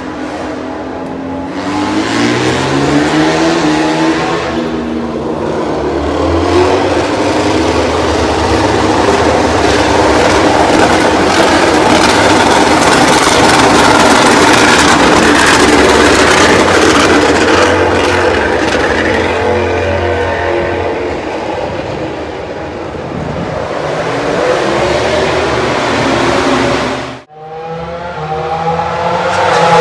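MotoGP prototype race bikes running on track, loud four-stroke engines revving up and down in pitch as they brake and accelerate, several overlapping at times. The sound cuts out for a moment near the end, then an engine note rises again as a bike accelerates.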